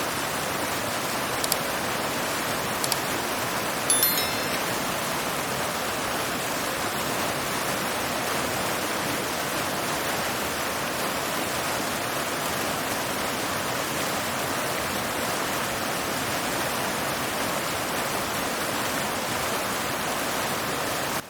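Steady rushing noise of heavy rain or floodwater, with a few short sharp clicks in the first few seconds, the loudest about four seconds in.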